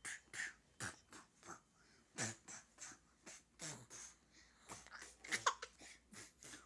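A string of short, breathy, irregular bursts, some sliding down in pitch: playful funny mouth noises and giggling around a baby.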